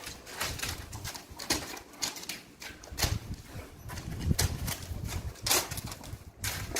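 Irregular crunches and soft thumps of a dog's paws scrabbling and bounding in snow.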